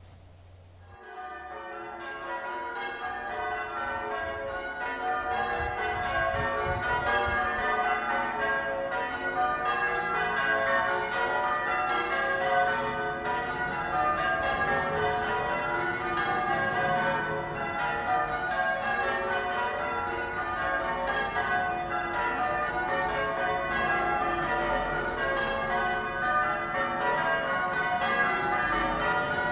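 Church bells change ringing: many bells struck in rapid, overlapping sequence. They fade in about a second in, grow louder over the next few seconds and then ring on steadily.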